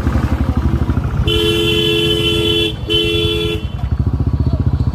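Motorcycle engine running with a steady, rapid low throb, while a two-tone vehicle horn sounds about a second in: one long honk, then a short one.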